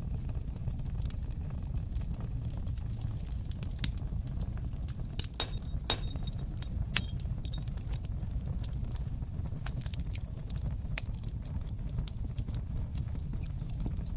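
Wood fire crackling in a fireplace: a steady low rumble of the flames under scattered sharp pops, one loud pop about seven seconds in.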